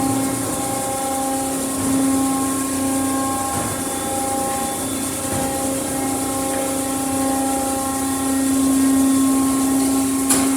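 Autec Evolution in-bay automatic car wash running through its triple-foam pass: a steady machine hum over the hiss of spray. A single sharp click near the end.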